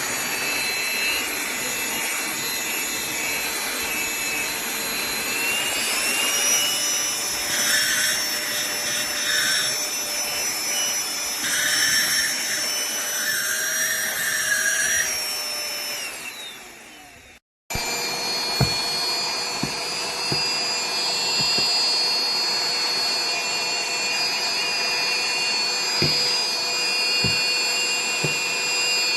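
Cordless handheld vacuum cleaner running with a steady high motor whine. Its pitch steps up about six seconds in. A little past halfway it cuts out briefly, then runs again with a few light knocks.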